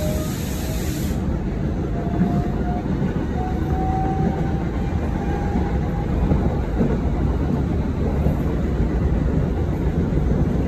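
Commuter electric train running, heard from inside the carriage: a steady low rumble of wheels on rail, with a faint motor whine slowly rising in pitch over the first six seconds as the train picks up speed.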